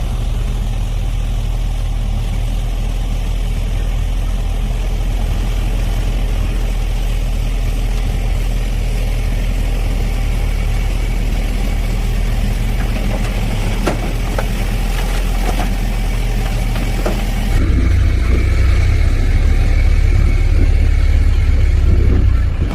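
Heavy diesel construction machinery running steadily, with a few sharp knocks and clanks in the middle. About 18 seconds in the sound changes suddenly, becoming louder and deeper.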